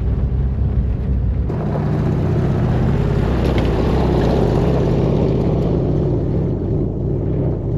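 1958 VW bus's air-cooled flat-four engine running steadily under load, pulling the bus along a rough dirt trail toward a hill climb. The engine and rolling noise grow louder about a second and a half in.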